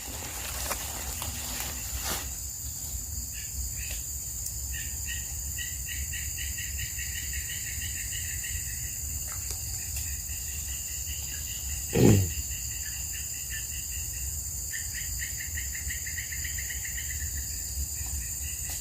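Steady high-pitched drone of insects such as crickets or cicadas, with two runs of rapid trilling calls over it. A single short, loud, low sound comes about twelve seconds in.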